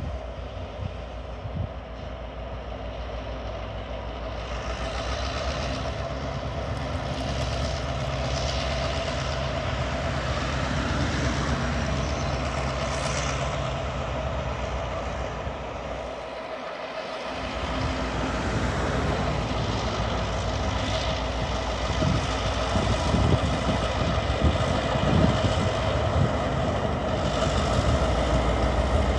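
Diesel locomotives of a TasRail freight train running slowly, a steady engine drone that grows gradually louder as the train draws closer.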